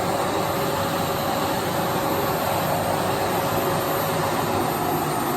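Philips PowerPro Compact bagless cyclonic vacuum cleaner running steadily with its floor nozzle pushed across the floor: an even rushing hiss with a faint steady whine.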